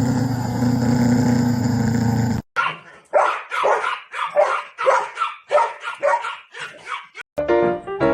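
A dog barking repeatedly in short sharp barks, about two a second, after a steady low drone in the first couple of seconds. Music comes in near the end.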